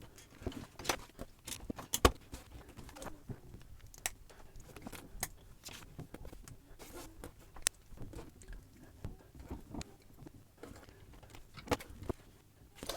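Small plastic building bricks clicking and clattering as they are handled and pressed together, a scatter of short, sharp clicks at irregular intervals.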